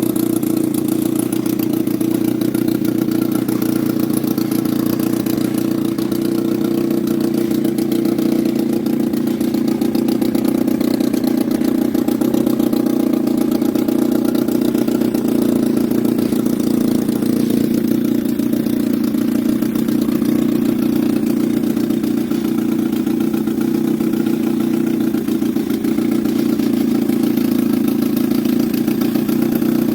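Suzuki 6 hp outboard motor running steadily at an even engine speed.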